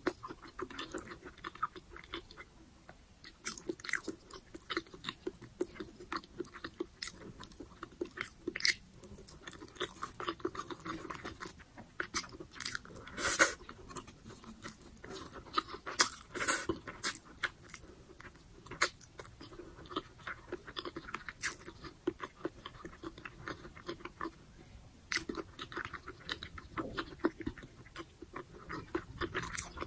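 A person chewing a mouthful of braised pork humba and rice, with many short, irregular mouth clicks and a louder cluster about halfway through.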